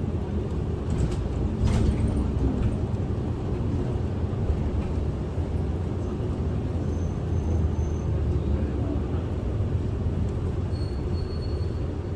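Kyoto City bus interior: steady low engine and road rumble, with a couple of brief clicks or rattles about one to two seconds in.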